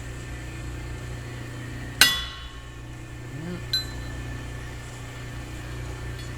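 A single hammer blow on the steel driveshaft tube about two seconds in, ringing briefly, followed by a lighter metallic click, over a steady low shop hum. The shaft is being knocked to true its runout while it is dialed in with an indicator.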